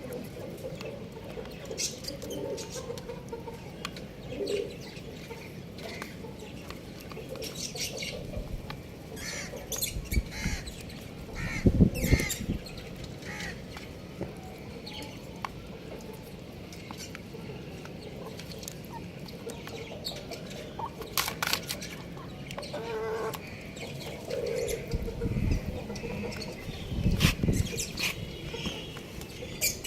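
Young chickens feeding: scattered pecking clicks and scuffling, with a few short calls and some louder thumps and wing-flap sounds, the loudest about twelve seconds in and again near the end.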